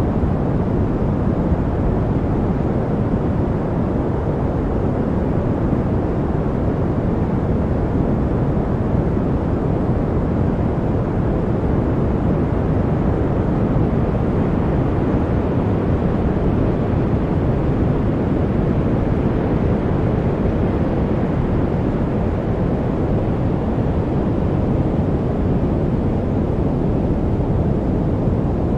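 Steady noise for studying, unchanging throughout. Its energy sits low, so it sounds like a deep, even rush with little bright hiss, closer to brown noise than to a bright white-noise hiss.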